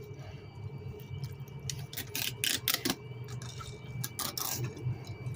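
Knife working through a lake trout fillet: irregular clicks and short scrapes over a steady low hum.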